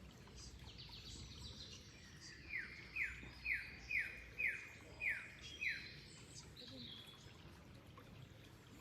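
A songbird singing a run of seven quick, down-slurred notes, about two a second, from a third of the way in to past halfway, with fainter chirps from other birds around it.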